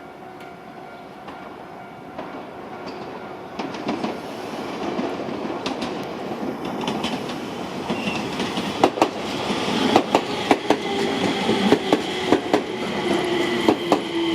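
Enshu Railway 2000-series electric train running, growing steadily louder, its wheels clacking over rail joints in sharp clicks from about nine seconds in, with a low tone sliding down in pitch near the end.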